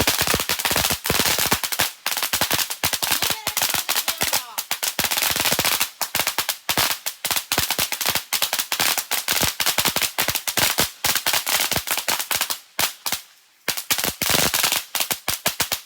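A long string of firecrackers going off: a dense, rapid crackle of sharp bangs that thins out over the last few seconds and stops just before the end.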